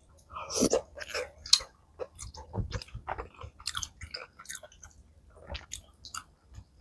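A person chewing and biting malatang close to the microphone: a run of irregular, sharp mouth sounds, loudest about half a second in.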